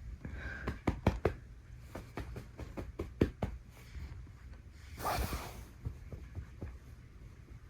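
A Norwegian Forest Cat kitten playing on bedding: a run of soft thumps and knocks as she pounces and scrabbles, with a short rustling burst about five seconds in.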